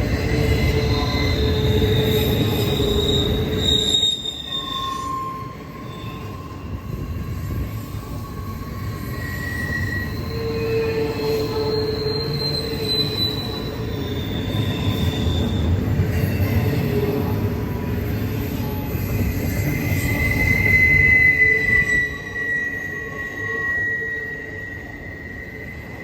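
Norfolk Southern freight train cars rolling past with a steady low rumble, their wheels squealing in long drawn-out tones at several different pitches that come and go. The loudest squeal is a high one about three quarters of the way through.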